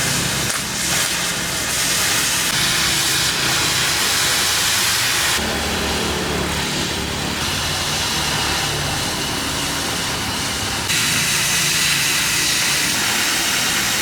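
Machinery running steadily with a strong hiss over a low engine hum; the sound changes abruptly about five seconds in and again near eleven seconds.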